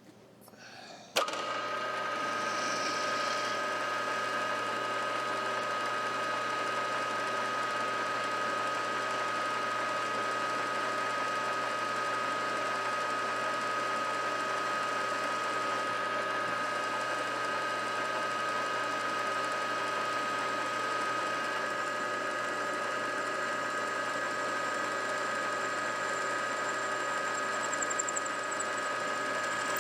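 Milling machine spindle switched on about a second in and running steadily with a high whine, starting a hole for a number 7 drill.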